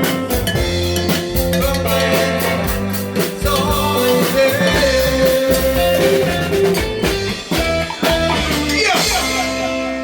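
Rock band music with guitar and a drum kit playing steadily, a falling pitch slide about nine seconds in.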